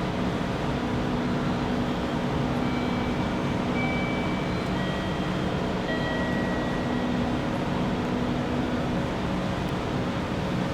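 JR 211 series electric train running slowly alongside the platform, a steady rumble and hum at an even level. A few brief high squealing tones come and go in the first half, typical of brakes or wheels on the rails as the train comes in.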